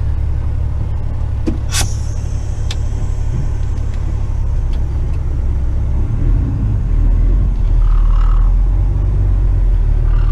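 Western Star tipper truck's diesel engine rumbling, heard from inside the cab. About two seconds in comes a sharp click followed by a brief hiss. The engine grows louder from about six seconds in.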